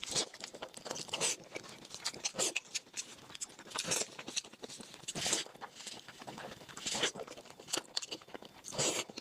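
Close-miked eating: a person chewing and crunching food, with many small wet mouth clicks and a louder crunchy bite every second or so.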